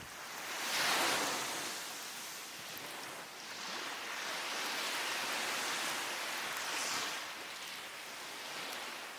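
Sea waves on a beach rising and falling: a wave breaks about a second in, then a longer wash swells from about three and a half seconds and fades near seven.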